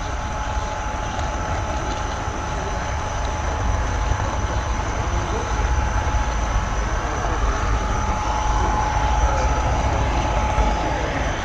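Model railroad camera car rolling along the track with a steady rumble of wheels on rail, picked up by the GoPro riding on the car, with a thin steady whine over it.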